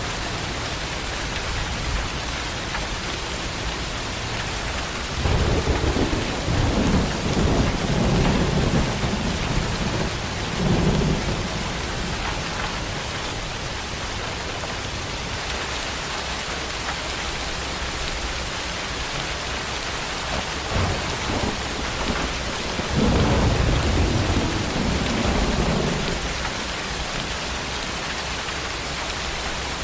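Steady tropical rain hissing down, with thunder rumbling twice: a long roll from about five seconds in and a shorter one past the twenty-second mark.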